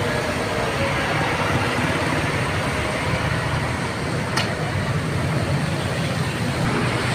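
Diesel bus engine idling, a steady low rumble under an even hiss, with one short click a little past the middle.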